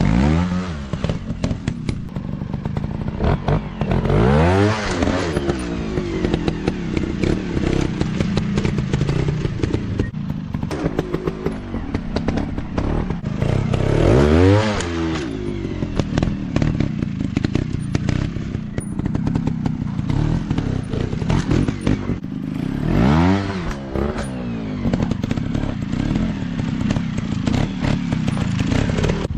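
Dirt bike engines running off-road, revving up and back down three times, with many short knocks and clatters throughout.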